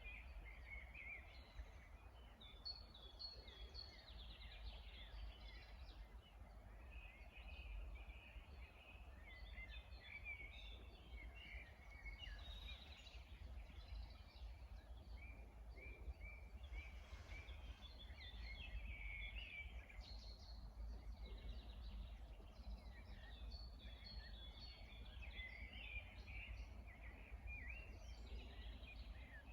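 Several songbirds chirping and singing at once, faint, over a steady low rumble.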